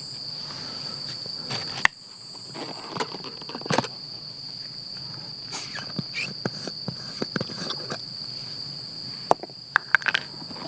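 Insects chirring in a steady high trill, with scattered small clicks and knocks of things being handled close by.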